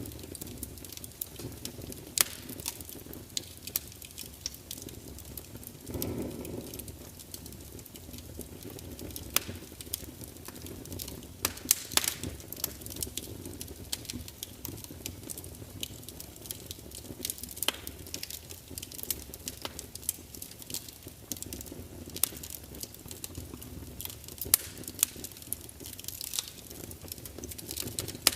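Log fire in a large open fireplace crackling and spitting, with sharp pops over a low steady rumble of the flames.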